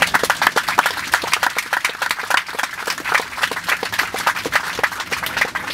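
Passengers in the airliner cabin clapping together, a dense round of applause.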